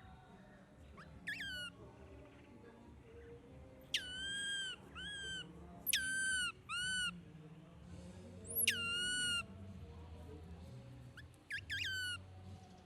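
Baby monkey crying with a series of short, high, clear calls, each dropping sharply in pitch and then holding steady, several coming in quick pairs.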